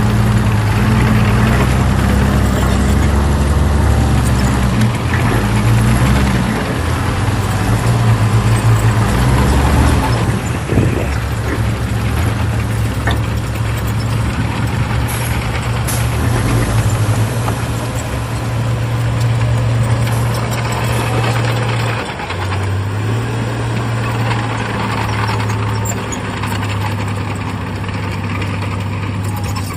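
Heavy earthmoving machine's diesel engine running loud and steady, its pitch stepping up and down several times, with a brief drop about 22 seconds in.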